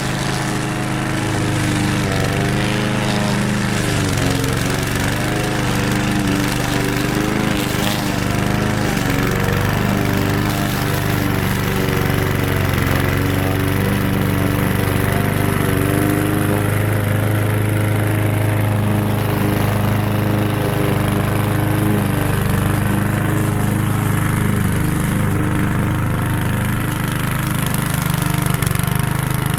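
Lawn mower engine running steadily, its pitch wavering slightly.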